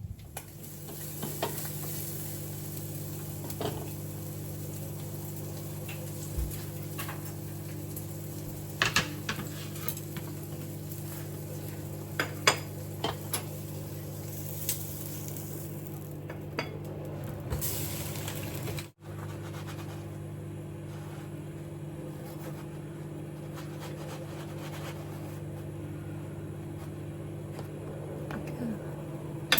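Kitchen utensils and dishes clinking and clattering a few times over a steady, even hum.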